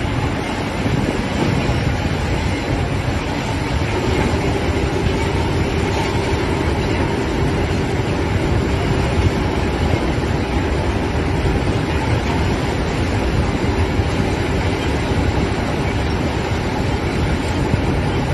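The diesel engine of a VST Shakti M932 30 hp compact tractor, running steadily at a loud level, with a steady hum rising out of the noise about four seconds in.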